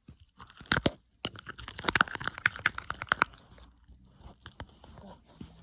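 Sticky homemade slime being mixed and worked after more activator goes in, a dense run of wet clicks and crackles that dies away a little past halfway.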